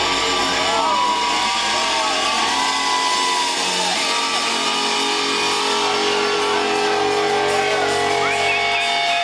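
A rock band playing live and loud, with guitar prominent. Held notes run under several sliding, bending notes.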